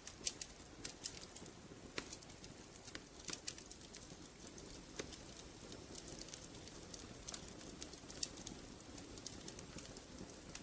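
Wood fire crackling in a fireplace: irregular sharp pops and snaps, a few stronger ones among many small ticks, over a soft steady hiss.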